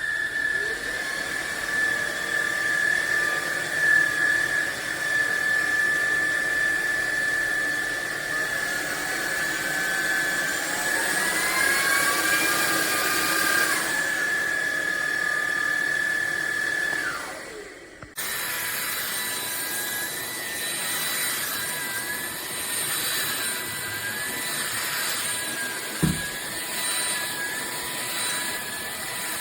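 Fieety cordless stick vacuum motor spinning up and running with a steady high whine. Partway through, a second tone rises in pitch, and about two-thirds of the way in the motor winds down and stops. After a cut it runs again with a slightly wavering pitch, and there is a single knock near the end.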